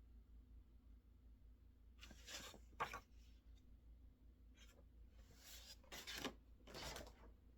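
Faint scratching strokes of a pen writing on paper, starting about two seconds in and coming in several short runs.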